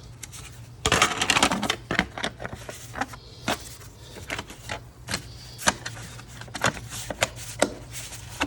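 Scattered clicks and knocks of parts being handled and fitted in a car's engine bay, with a denser rattle about a second in.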